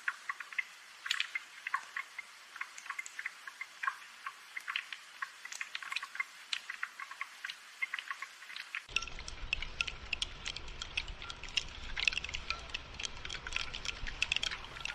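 Gentle rainfall heard as an irregular patter of separate drips and light ticks. About nine seconds in, a low rumble and more hiss join the drips.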